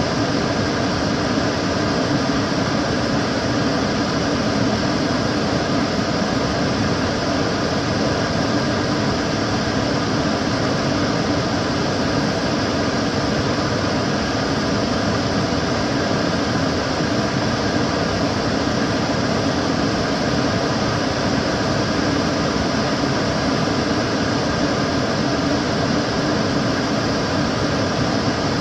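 Kitchen cooker hood extractor fan running steadily: an even rushing of air with a low hum and a few faint steady tones, unchanging throughout.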